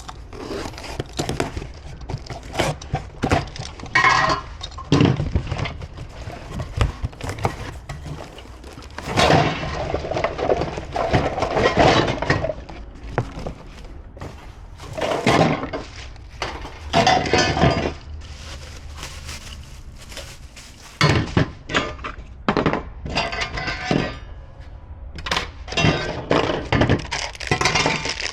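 Gas grill parts being handled during assembly: irregular knocks, clinks and clatter of metal panels and pieces.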